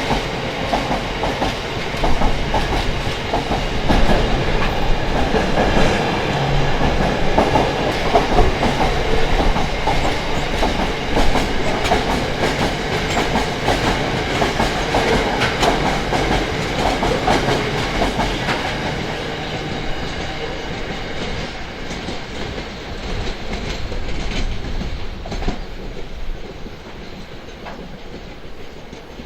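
Wagons of a long intermodal container freight train rolling past, their wheels going clickety-clack over the rail joints. The sound fades over the last ten seconds or so as the train draws away.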